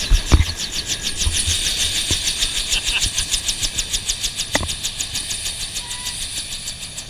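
Bell UH-1 Huey helicopter in operation, heard from inside the cabin: the two-blade main rotor beats rapidly and evenly, about ten pulses a second, over the steady whine of its turbine engine, with a couple of low thumps about a second in.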